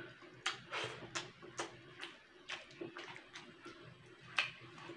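Close-up wet chewing and lip smacks of someone eating rice and stewed papaya by hand: irregular short smacks, about two a second at first, with one louder smack near the end.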